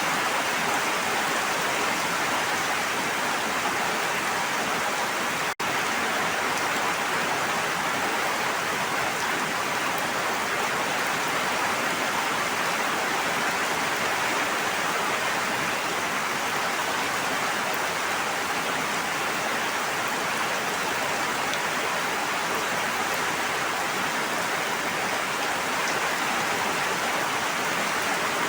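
Steady rain falling, an even hiss of drops with no thunder, broken by a momentary dropout about five and a half seconds in.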